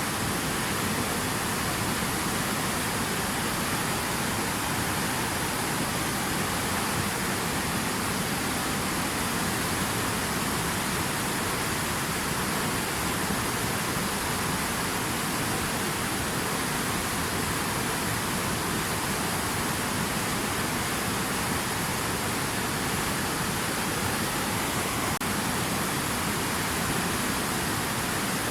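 Steady, unbroken rush of water, an even hiss with no splashes or changes.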